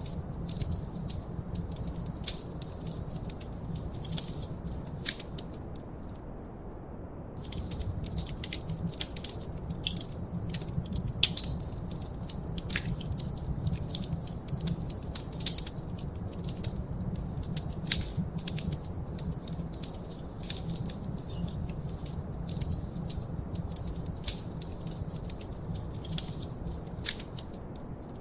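Wood fire in a fireplace crackling, with many sharp pops and snaps over a steady low rumble of the flames. The crackling drops out for about a second some six seconds in, then carries on.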